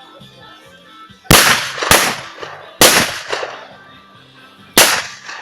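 Bombinhas, small firecrackers thrown into a bonfire, going off: four sharp, loud bangs, the first two close together about a second in, another near the middle and the last near the end, each with a short ringing tail. Music plays underneath.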